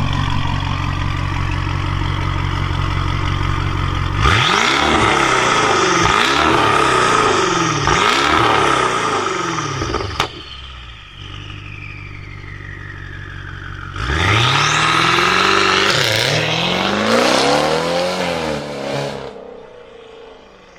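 BMW car engine idling, then revved in a quick series of blips, dropping back to idle about ten seconds in, and revved again in a second series of blips before fading out near the end.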